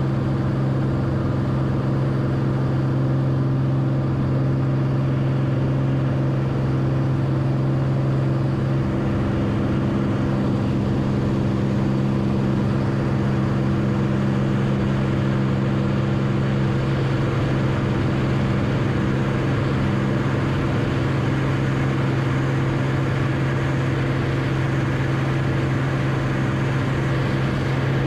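Cockpit drone of a Beechcraft Bonanza's six-cylinder piston engine and propeller in flight, steady and loud. The engine note shifts a little about a third of the way in and again past halfway, as the power setting changes.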